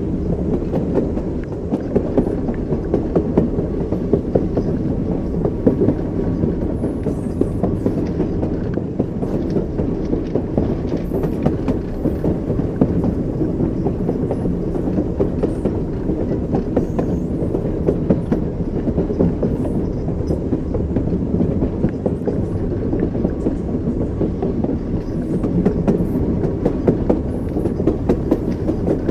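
Train wheels rolling over rail joints at steady speed: a continuous low rumble with frequent knocks, the clickety-clack heard from inside a moving railway carriage.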